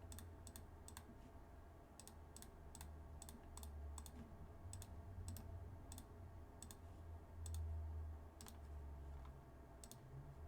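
Faint, sharp clicks at uneven spacing, roughly two a second, over a low hum that swells briefly late on.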